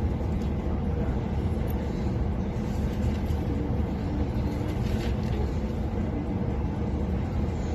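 Passenger train running at speed, a steady low rumble with a faint hum, heard from inside the carriage.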